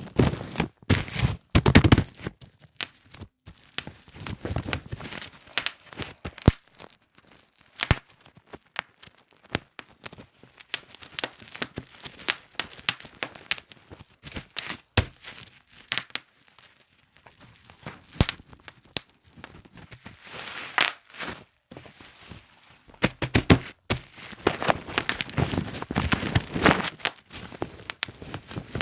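Plastic bubble wrap being squeezed and crumpled by hand, its bubbles popping in irregular sharp snaps amid crinkling. There are denser runs of crackling pops about two seconds in, around twenty seconds and again near the end.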